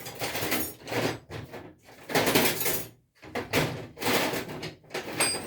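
Rummaging through tools and parts: a series of scraping and clattering noises, with a short metallic clink near the end.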